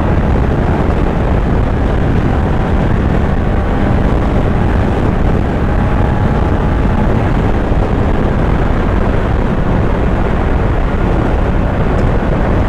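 Kawasaki Z900's inline-four engine running at a steady pace while riding, mixed with a dense rush of wind and road noise.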